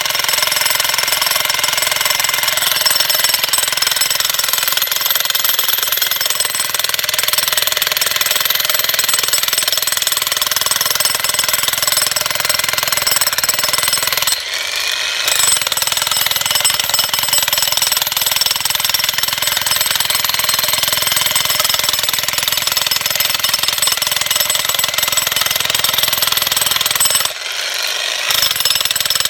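Jackhammer breaking stone, running continuously with two brief pauses, one about halfway through and one near the end.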